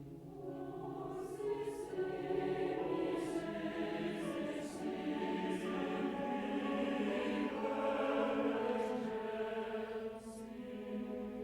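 Mixed chorus singing a slow, sustained choral passage, with soft sibilant consonants cutting through. It swells twice and eases off near the end.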